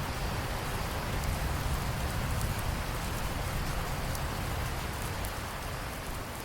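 Steady rain falling, an even hiss with scattered drop ticks and a deep low rumble beneath.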